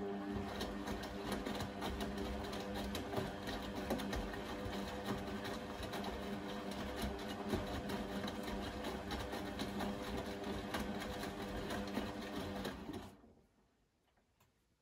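Blomberg Granat 3200 washing machine running: a steady motor hum over dense rattling and clicking, which stops abruptly about 13 seconds in.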